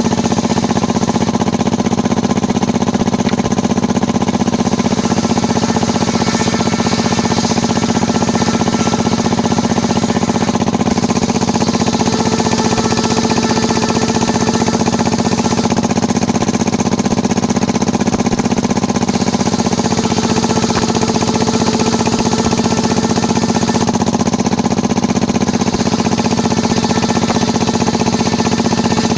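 Engine of a small circular sawmill rig running steadily at a constant speed.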